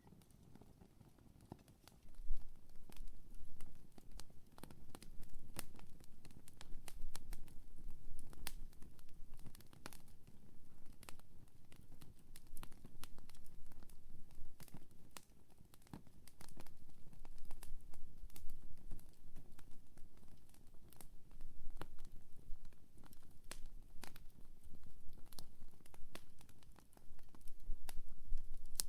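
Wood campfire crackling, with many sharp, irregular snaps and pops over a low rumble of burning, starting about two seconds in.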